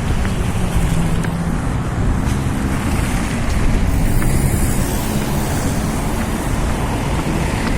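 Steady street traffic noise mixed with wind buffeting the microphone.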